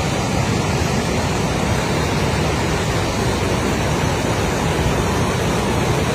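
Fast-moving floodwater rushing down a river channel, a steady dense rush of water noise.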